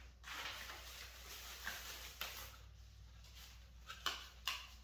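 Packaging rustling as small engine parts are unwrapped, with a few light clicks and taps of parts being handled.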